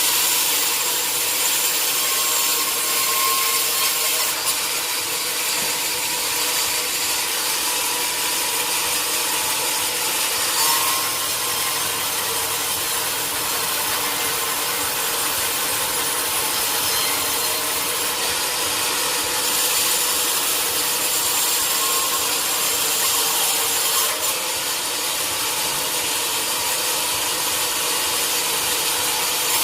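Sawmill saw cutting through a teak log: a steady, hissing cut with a faint underlying hum.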